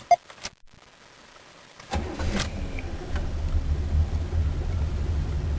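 Chevrolet 305 V8 in a 1985 Caprice Classic starting: a few clicks at first, then about two seconds in the engine fires with a brief rev and settles into a steady low idle. The owner says the valves are all screwed up, and the engine had sat unused all winter.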